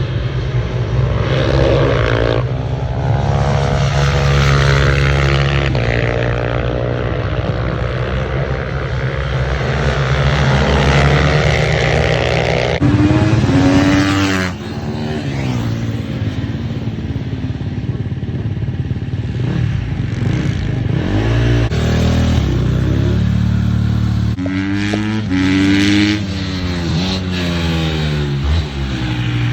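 Racing motorcycle engines revving hard, the pitch climbing and dropping again and again as they accelerate, shift gears and back off. Several bikes sound at once, their engine notes crossing as they pass.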